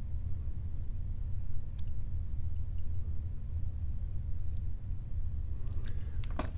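Faint metallic clicks of a lock pick and tension wrench working the pin stack of a Guard 445 padlock, a few scattered at first and a cluster near the end, over a steady low hum.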